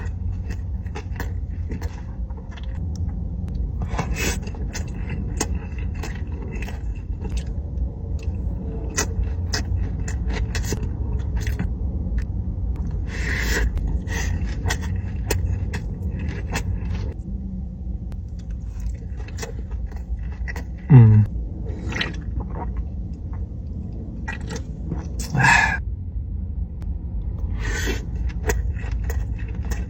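Close-up eating sounds, food being chewed with many short crunches and wet clicks, over a steady low rumble. Two brief falling hums come through, one about 21 s in and one near 25 s.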